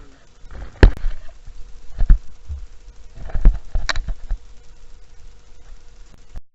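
Kayak paddling on the sea: a few irregular knocks and splashes from the paddle and hull over a faint rush of water.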